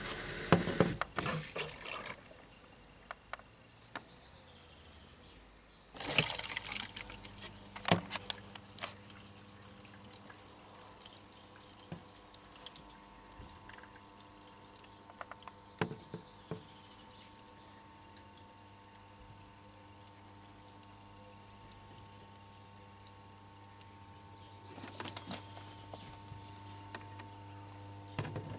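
Bosch WAN28220FF washing machine running a synthetics 40 °C cycle: water splashing and pouring in several bursts, about a second in, around six to nine seconds in and again near the end, over a steady machine hum.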